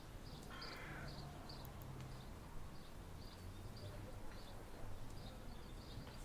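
Faint outdoor ambience: a small bird chirping repeatedly in short high notes, about two a second, with one louder call near the start, over a faint low hum.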